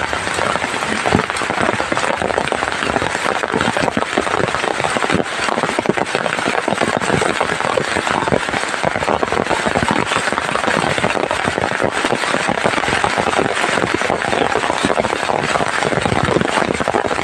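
Heavy rain pouring down steadily: a loud, dense patter of countless drops with no let-up.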